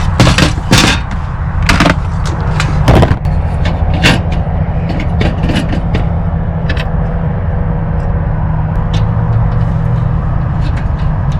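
Several sharp knocks and clanks in the first four seconds, then fainter ticks, over a steady low rumble.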